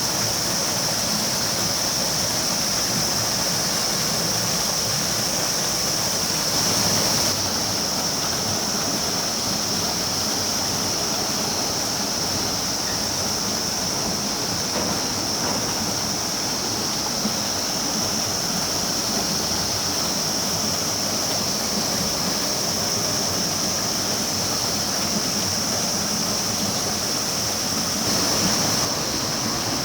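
A stream rushing steadily, with a high hiss held over the whole of it.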